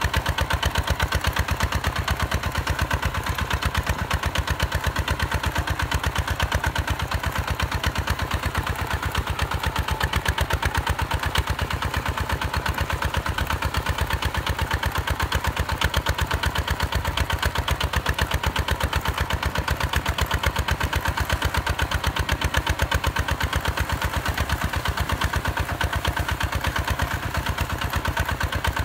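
Hinota HG Gold 155 DI tractor's single-cylinder diesel engine running steadily, a rapid, even train of firing pulses with no change in speed.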